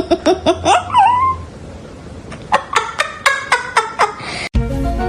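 Two quick runs of short, pitched vocal calls, laughter-like in rhythm, each call falling in pitch. Music starts abruptly near the end.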